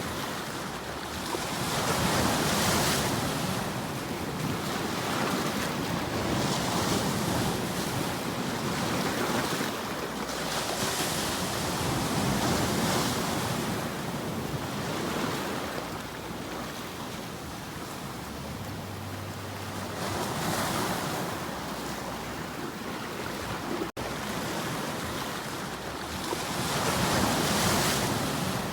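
Sea waves washing onto a shore, the surf swelling and falling back every few seconds, with a brief dropout in the sound about three-quarters of the way through.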